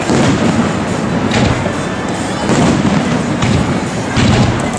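Aerial fireworks bursting: a continuous rumble of explosions with several sharper bangs.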